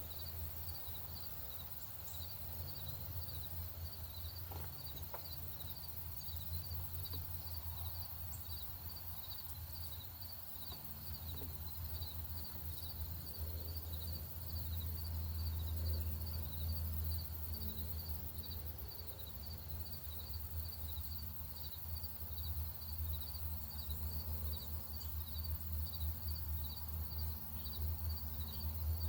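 An insect chirping steadily in an even rhythm, about two high chirps a second, over a steady low rumble, with a few faint bird notes.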